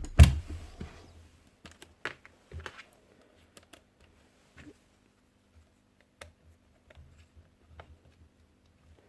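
A loud sharp knock right at the start, then scattered light clicks and taps of hand tools and parts being handled on a bench.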